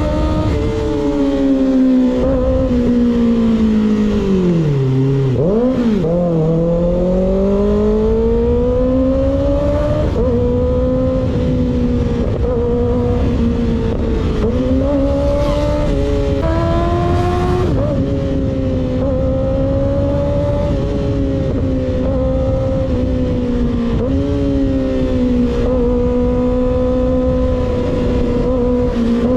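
Kawasaki ZX6R inline-four with a baffle-less M4 GP19 slip-on exhaust under way at steady revs. About five seconds in, the revs drop sharply and then climb again, followed by a few smaller shifts in engine pitch.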